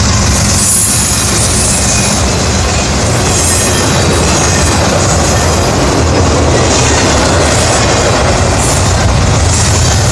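Freight train of double-stack intermodal well cars rolling past at speed: a loud, steady rush and rumble of steel wheels on rail.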